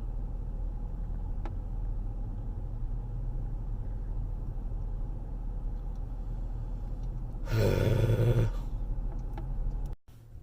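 Steady low rumble of a car's cabin while driving, with a louder rush of noise lasting about a second near the end.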